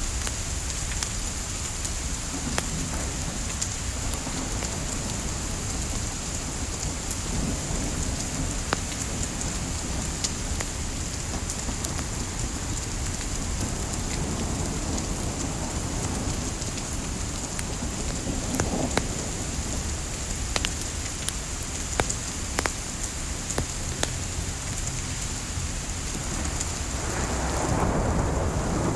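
Steady rain hiss mixed with the scattered sharp pops and crackles of burning firewood, over a low rumble. The rumble builds about a second or two before the end.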